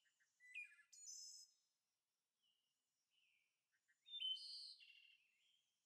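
Faint bird chirps in two short bouts, about half a second in and again about four seconds in, with near silence between them.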